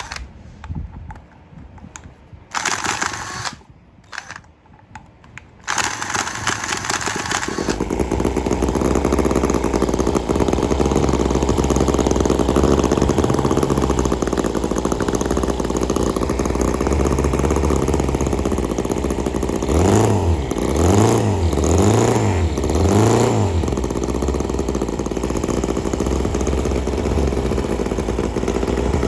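Small model engine starts about six seconds in after a few knocks, then runs steadily. Its pitch rises and falls three times a little past the middle as it is revved.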